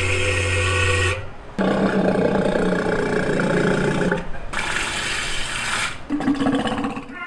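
Animal calls from several different animals in quick succession, each cut off abruptly. A low, rough, roar-like call runs through the middle.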